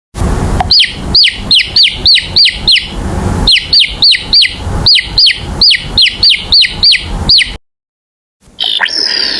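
A bird calling in a rapid series of sharp downward-sweeping chirps, about four a second, in two runs with a short break between them, over a steady low background noise. The sound cuts off suddenly near the end.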